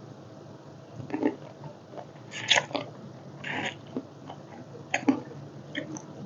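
A person chewing and biting food close to the microphone, with about five short crisp bites spaced a second or so apart.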